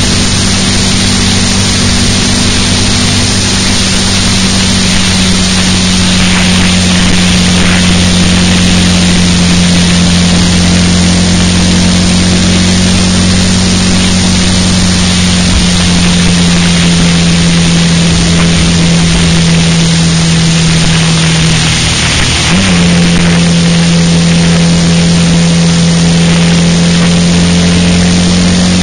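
Car engine droning steadily at motorway cruising speed, with constant wind and road noise, heard from inside the car. The engine note dips briefly about three-quarters of the way through, then holds steady again.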